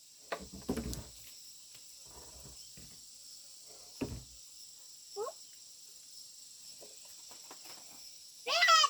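Steady high-pitched chirring of insects, with a few scattered light knocks. A short pitched call comes a little after halfway, and a louder voice-like call near the end.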